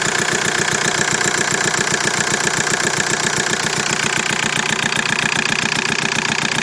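Car engine idling steadily with a regular knocking from the engine bay.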